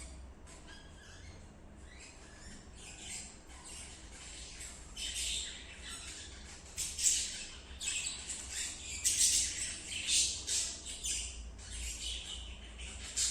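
Budgerigar chattering and squawking in quick, short calls, sparse at first and getting busier and louder from about five seconds in.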